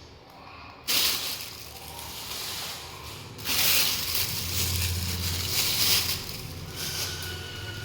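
Rustling and crunching noises in two loud stretches, the first about a second in and the second from about three and a half seconds in.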